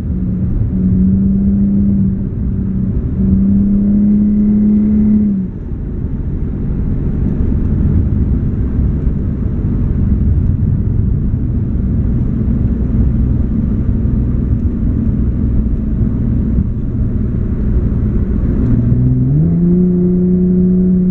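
Infiniti G37 sedan's 3.7-litre V6 running through Berk high-flow cats and a Topspeed Y-back exhaust, heard from inside the cabin with the windows up. A steady engine note under throttle eases off about five seconds in, giving way to a low rumble with road noise. Near the end the pitch rises as the engine revs up, then holds steady.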